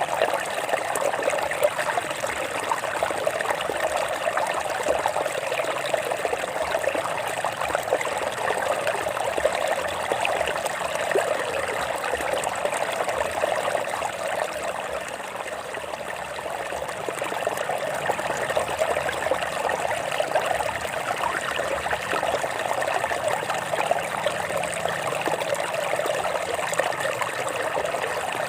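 Water running over rocks in a stream, a steady trickling and babbling that eases slightly about halfway through.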